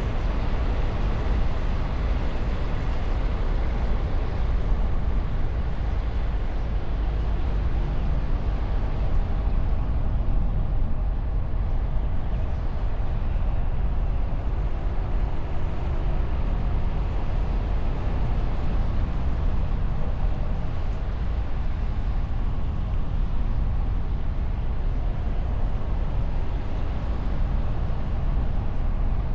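Car driving along a road, heard from a camera mounted on the bonnet: a steady rush of wind and tyre and engine noise. The camera's microphone sits under a wind cover.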